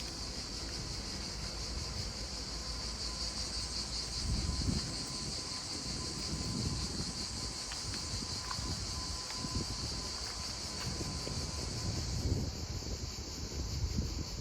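Steady, high-pitched chorus of insects, such as crickets or cicadas, over a low, uneven rumble.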